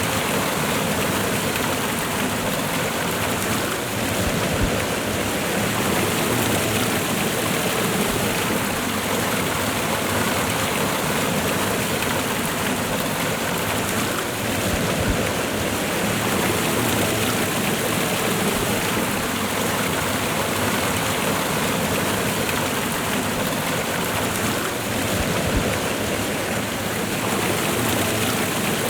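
Waterfall and running river water rushing steadily, without any change.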